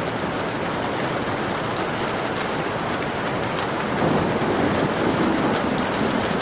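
Steady rain pattering on a window pane, with fine drop ticks. A low rumble swells about four seconds in and holds for a couple of seconds.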